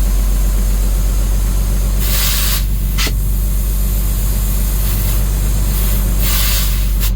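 International DT466 inline-six turbo diesel idling steadily, heard from inside the truck's cab. Two short bursts of hissing air, one about two seconds in and one near the end, and a single sharp click about three seconds in.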